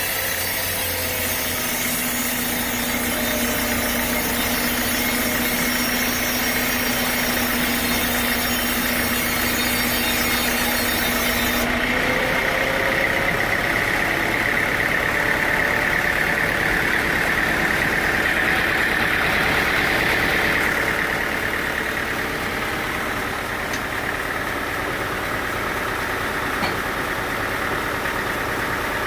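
Sawmill machinery running with a steady engine drone. About twelve seconds in the sound changes abruptly and a high whine comes in, swelling and then fading out about twenty-one seconds in.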